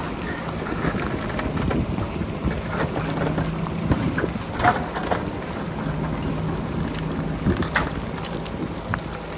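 JCB backhoe loader's diesel engine running steadily while the bucket digs into rock, with scattered sharp knocks and scrapes, and wind rumbling on the microphone.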